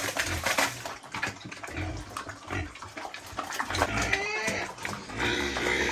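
Water splashing and sloshing in irregular bursts, with a few short high gliding squeals about four seconds in.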